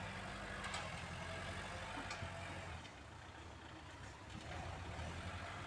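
Heavy diesel engine running steadily, a low hum that drops a little in level about three seconds in and comes back about a second later.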